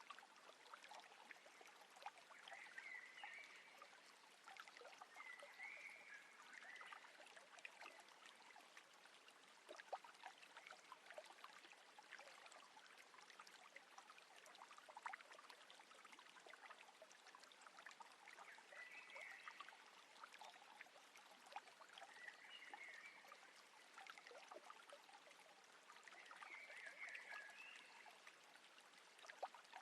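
Faint trickling and lapping of calm water around a small boat, full of small drips and ticks. A few brief chirps sound now and then.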